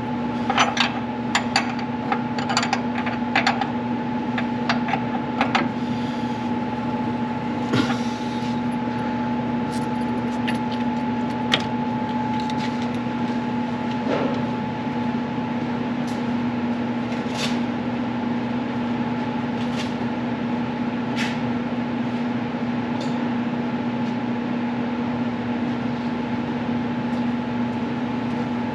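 An engine idling steadily, with a run of sharp metallic clicks and knocks in the first few seconds and a few single knocks later.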